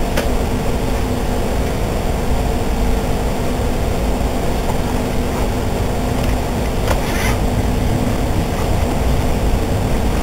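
Inside a moving passenger train: a steady low rumble of wheels on the rails with a steady hum, and a brief hiss about seven seconds in.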